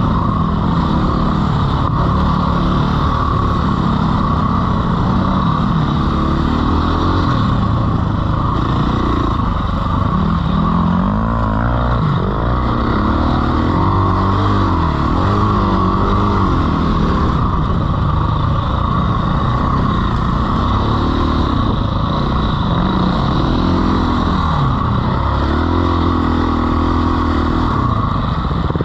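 Dirt bike engine under way, its revs rising and falling over and over as the rider works the throttle, with a steady rushing noise over it.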